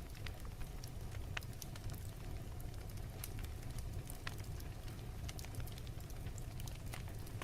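Fireplace fire burning: a steady low rumble with irregular, scattered sharp crackles and pops.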